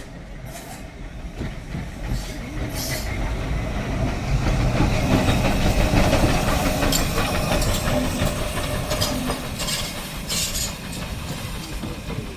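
Heritage steam train running along the track, its wheels clattering. The noise builds up to a peak about halfway through and then eases off.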